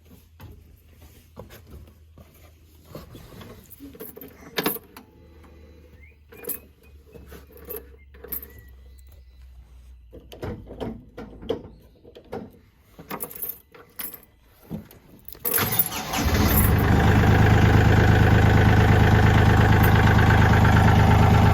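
Scattered clicks and knocks, then about three-quarters of the way in the Kioti CK4010 tractor's diesel engine cranks, catches and runs steadily and loudly.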